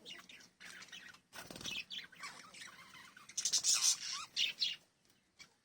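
Small pet parrots chirping and twittering in quick, overlapping high calls, loudest in a burst about three and a half seconds in, with a brief lull near the end.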